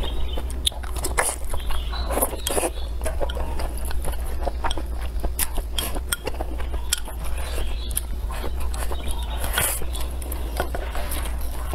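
Close-miked mukbang eating sounds: a person chewing and slurping spicy tofu skin and rice, with many short wet mouth clicks throughout. A steady low hum runs underneath.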